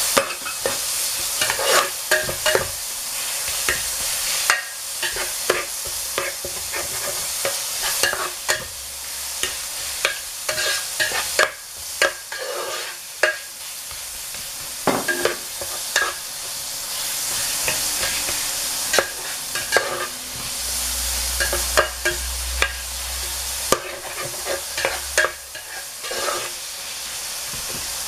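Diced carrot, onion and ground meat sizzling as they fry in an electric pot, with a steady hiss. A metal spatula stirring them clicks and scrapes against the pan bottom again and again, at an uneven rate.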